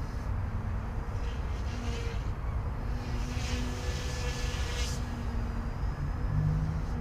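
OMP M1 micro electric RC helicopter flying aerobatics, its rotor hum wavering in pitch as the load changes through the flips, with wind rumbling on the microphone.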